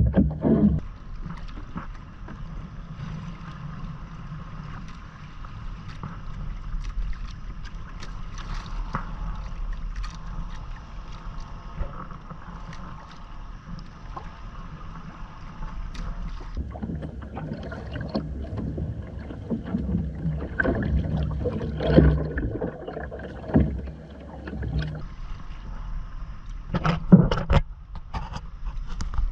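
Hobie Island sailing kayak under way: steady water noise along the hull with a low rumble. In the second half there is a run of uneven knocks and bumps.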